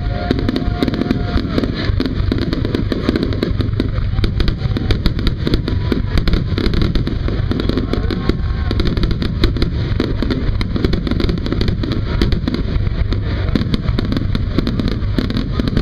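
Fireworks display: a continuous rapid barrage of bangs and crackles, one burst after another without a break.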